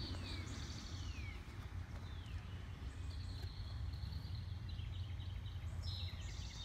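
Wild birds singing: a few whistled notes that slide downward, plus quicker trilled chirps, near the start, about two seconds in, and again near the end, over a steady low rumble.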